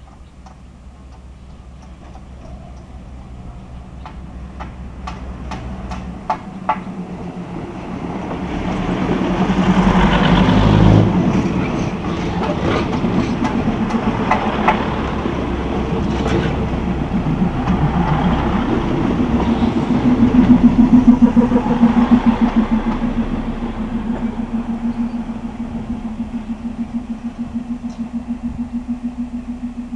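A Thai State Railway diesel railcar train approaches and runs past along the platform, growing louder to its loudest about ten seconds in. It then comes to a stand at the halt, its diesel engine running with a steady, regularly pulsing hum.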